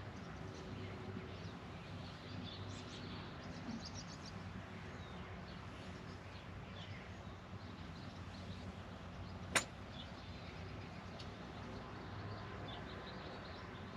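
A single sharp crack of a golf club striking the ball, about two-thirds of the way in, over faint steady background noise with scattered bird chirps.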